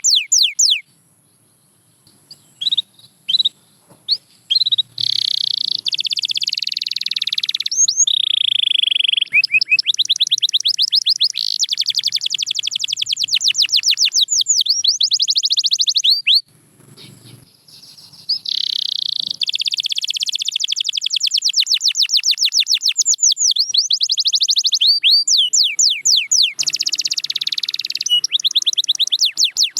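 Domestic canary singing: long trills of fast repeated high notes, with short sharp calls and a near-silent pause about two seconds in and another pause a little past halfway.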